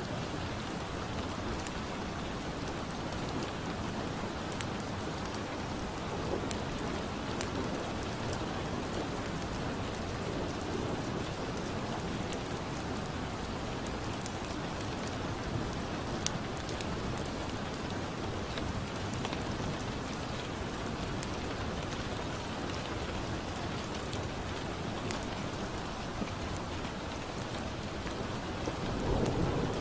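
Steady rain with scattered sharp crackles of a wood fire over it. A low rumble of thunder starts near the end.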